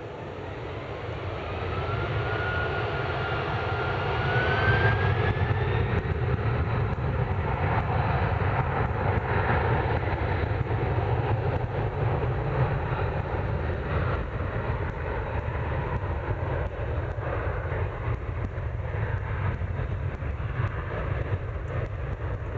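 Jet airliner engines at high thrust, growing louder over the first few seconds with a whistling tone that rises in pitch, then a steady deep rumble that holds to the end.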